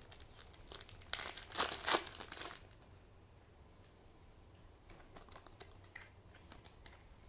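Foil wrapper of a trading-card booster pack crinkling and tearing open, the loudest rustle lasting about two seconds near the start, followed by a few faint ticks.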